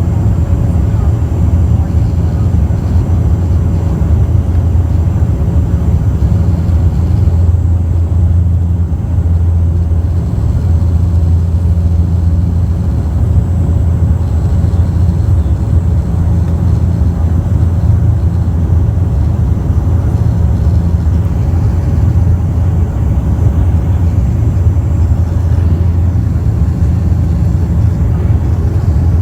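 Bombardier Q400 turboprop's engines and propellers heard from inside the passenger cabin: a loud, steady low drone with a deep hum that holds even throughout.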